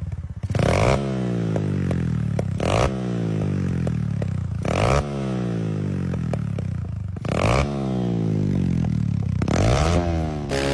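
Honda CG 150 Titan's single-cylinder four-stroke engine, through an aftermarket exhaust, revved in five sharp throttle blips about two seconds apart, the revs falling back toward idle after each.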